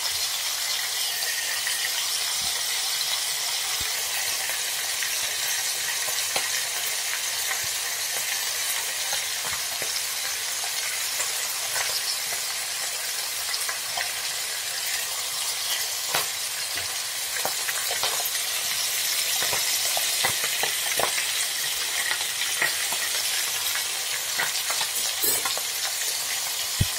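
Shark fillets frying in hot oil in a frying pan: a steady sizzle with scattered crackling pops, the pops coming more often in the second half.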